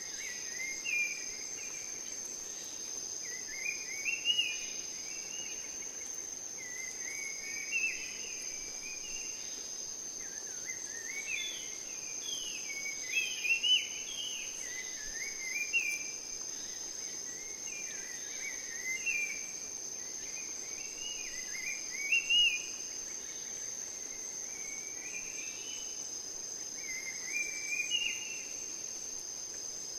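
Rainforest ambience: a steady, high-pitched insect trill, with short warbling bird phrases of stepped notes repeating every second or two.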